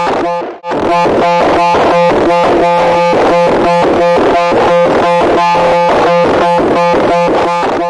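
A loud, harsh electronic buzzing tone pulsing rapidly and evenly, cutting out briefly about half a second in.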